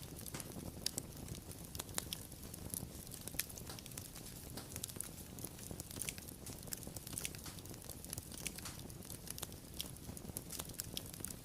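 Wood fire burning with irregular sharp crackles and pops over a low, steady rumble of flame.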